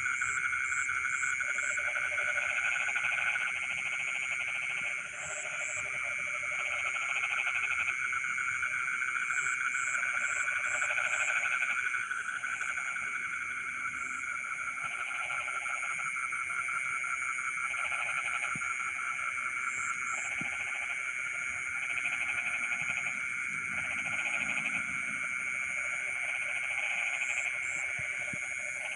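Night chorus of frogs in a rice field: a dense, steady chorus with lower croaking calls coming in bouts of about a second, on and off, and short runs of high chirps now and then.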